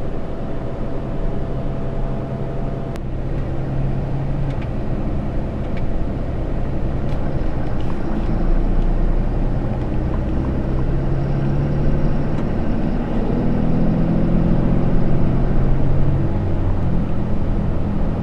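2013 Ram 3500's 6.7-litre Cummins inline-six turbo diesel pulling the truck along with tyre and road noise. The engine note builds louder through the middle and drops back near the end, as with acceleration and a gear change.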